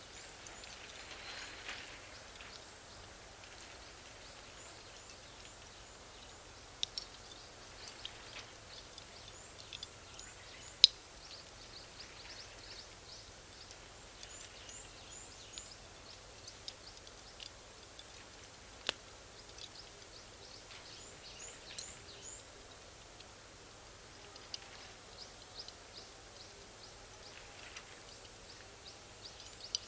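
Bonfire of Iwate cut charcoal and firewood crackling, with frequent small ticks and occasional sharp pops as the charcoal bursts; the loudest pop comes about eleven seconds in.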